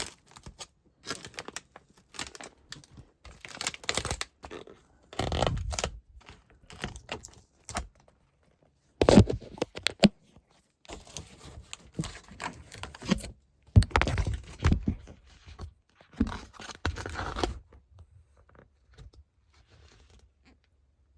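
Tape being peeled and torn off the A-coil cabinet of a heat pump's indoor unit in irregular ripping bursts, with clicks and knocks as the panel is handled. A sharp knock about nine seconds in is the loudest sound.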